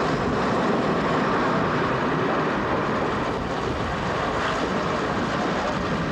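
First-generation diesel multiple unit running along the branch line, heard from inside the carriage at a window: a steady rush of wheel, engine and air noise.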